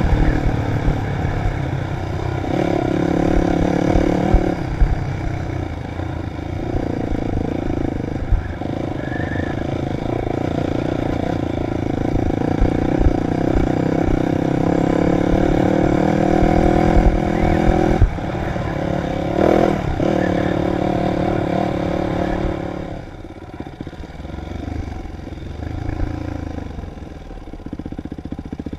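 Dirt bike engine running hard while being ridden, its pitch rising and falling with the throttle, easing off and getting quieter about three-quarters of the way through.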